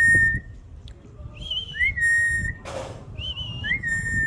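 Pet bird whistling a repeated two-part call: a short upward slide into a held note, alternating with a higher held note, each about half a second long. There is a brief hiss near the middle.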